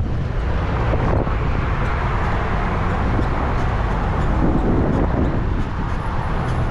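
Wind buffeting the microphone of a moving bike, over the steady hiss of road traffic.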